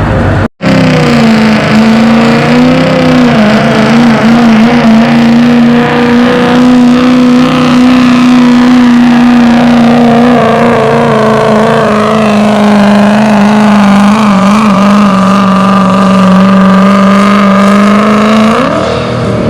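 Ford pickup truck's engine held at high revs while pulling the weight sled down the track on a full pull, its pitch steady with small dips. Near the end the revs rise briefly, then fall away as the pull finishes. The sound cuts out briefly about half a second in.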